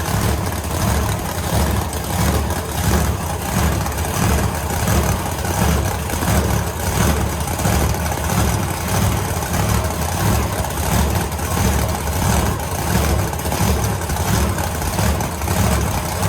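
Supercharged 540 cubic-inch big-block Chevy V8 running loudly on straight alcohol, started cold without petrol, with an uneven, pulsing beat.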